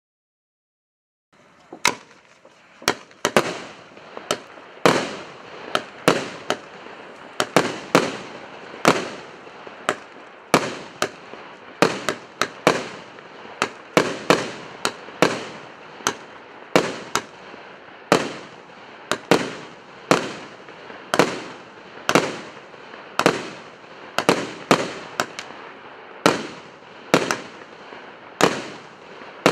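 A 49-shot, 1.25-inch consumer fireworks cake firing its shots one after another. It starts about a second and a half in, then gives roughly one to two sharp bangs a second, each trailing off in a short fizz, over a steady hiss.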